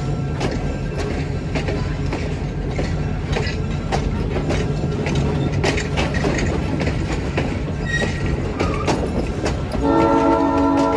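Train running on the rails, its wheels clicking over rail joints over a steady low engine drone. About ten seconds in, the locomotive's multi-note horn sounds, a steady chord held past the end.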